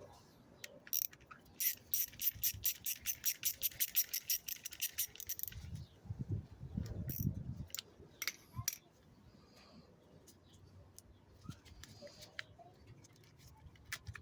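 Ratchet clicking rapidly, about six clicks a second, as a hose clamp is loosened from an air intake hose, followed by handling knocks and a few single clicks.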